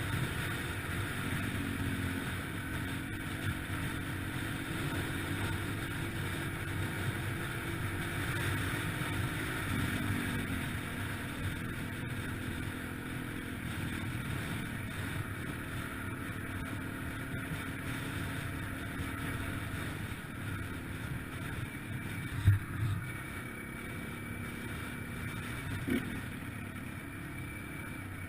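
Yamaha TTR-125LE dirt bike's single-cylinder four-stroke engine running steadily under way, its note shifting about ten seconds in. A sharp knock about 22 seconds in is the loudest moment.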